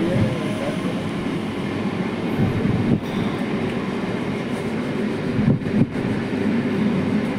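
A MEMU electric train running fast, heard from its open doorway: the steady running noise of its wheels on the rails and the rush of air, with brief dips in level about three and six seconds in.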